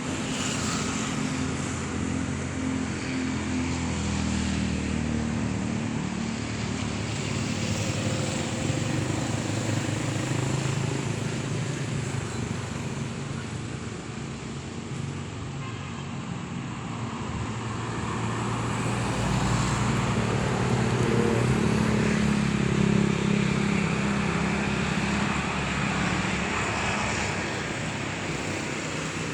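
An engine running steadily under a constant rushing noise, its pitch drifting slowly up and down.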